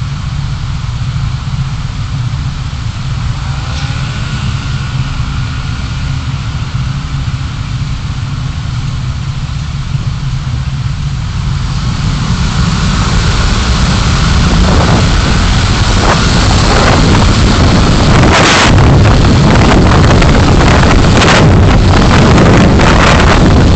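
Car driving, recorded by a dashcam: a steady low engine and road rumble that grows louder from about halfway in, with rushing wind and tyre noise building over it.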